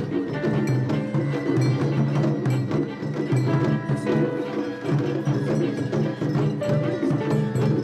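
Traditional Japanese festival music: a quick, busy beat of drums and clacking wooden percussion under a few held high notes.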